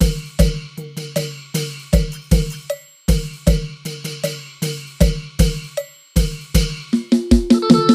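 Thai klong yao (long drum) rhythm: deep bass strokes and higher-pitched drum strokes with bright cymbal-like ringing, in a phrase that repeats about every three seconds. A melody comes in near the end.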